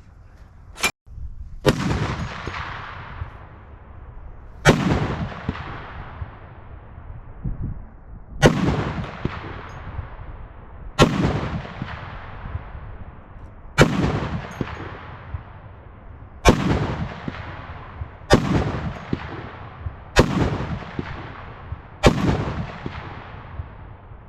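A Barrett M82A1 semi-automatic .50 BMG rifle fired nine times in a steady string, a few seconds apart. Each heavy shot rings out and echoes away over a couple of seconds. A sharp click comes just before the first shot.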